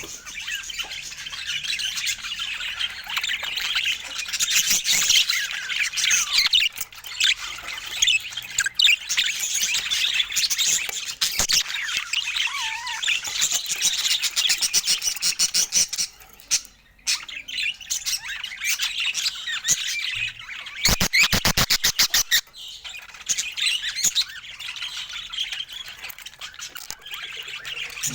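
Budgerigars chattering and warbling without a break, mixed with sharp squawks, with a short lull about sixteen seconds in and a fast rattling run of sharp clicks a few seconds later.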